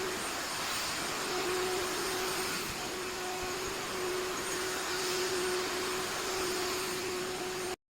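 Vacuum cleaner running steadily with a constant hum, cutting off abruptly near the end.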